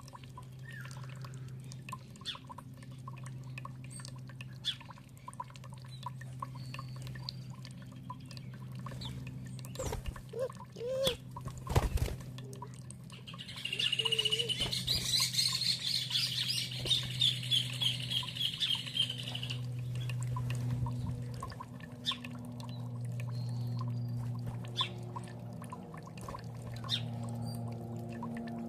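Steady running, pouring water with a songbird singing: scattered short chirps, then a fast run of high notes lasting about six seconds midway. A few sharp knocks come shortly before the song.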